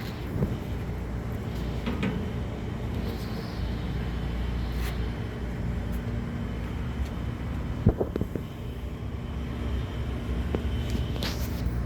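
A steady low mechanical hum, with a few short clicks and knocks.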